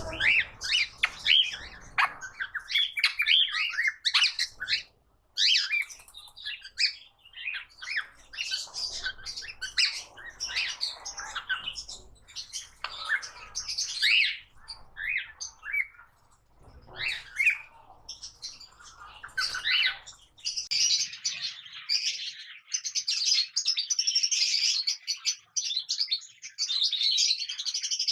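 Cockatiels chirping, whistling and squawking in a steady stream of short calls, thickening into dense overlapping chatter after about twenty seconds.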